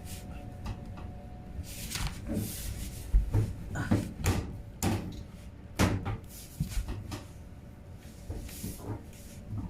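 Irregular knocks, clicks and rattles of hard plastic washing-machine parts being handled and worked at by hand, a dozen or so sharp taps spaced unevenly, fewer near the end.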